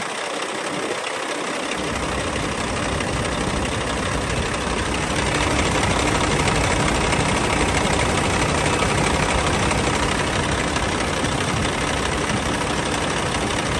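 Caterpillar C11 ACERT diesel engine idling steadily, heard close up with the hood open, growing a little louder over the first few seconds.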